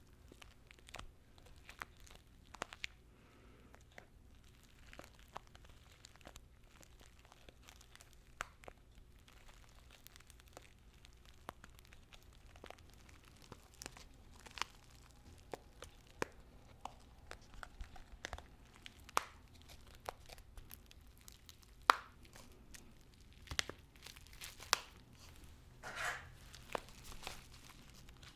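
Tea bags handled close to the microphone, giving a run of soft, irregular paper crinkles and crackles. A few sharper crackles come in the second half.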